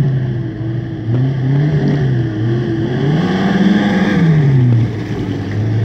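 Suzuki Vitara engine revving up and down repeatedly as the wheels churn through deep mud, with one long rise and fall in pitch about three to four seconds in.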